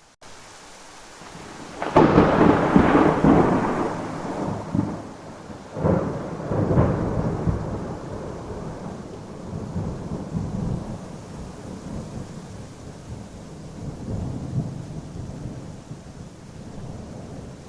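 Thunderstorm with steady rain. A loud thunderclap about two seconds in rolls into rumbling, two more claps follow around six and seven seconds in, and the thunder then fades to a low, uneven rumble under the rain.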